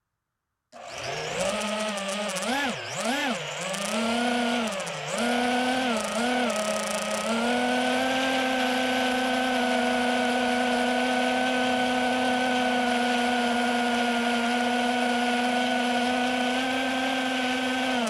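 DJI FPV drone's electric motors and propellers whining. The pitch swoops up and down several times with throttle changes, then holds steady from about seven seconds in.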